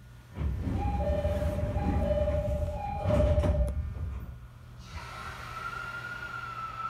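Sounds aboard a JR 209 series electric train. A loud low rumble sets in suddenly, and two held tones alternate high and low three times over it. After the rumble eases, a single gliding whine rises slightly and then starts to fall in pitch near the end.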